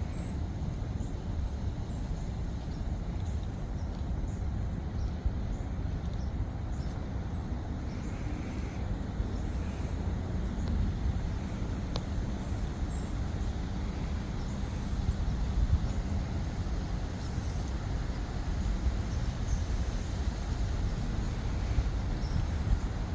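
Steady low rumble of wind on the microphone, with an even hiss of breeze over it and no distinct events.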